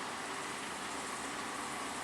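Steady noise of heavy machinery running, with a faint hum under a hiss.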